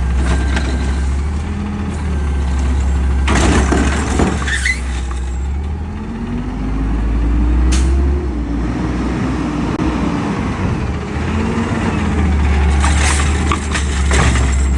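Peterbilt 520 garbage truck running, with short air hisses about three and a half seconds in and again near the end. In the middle the engine speeds up and then drops back.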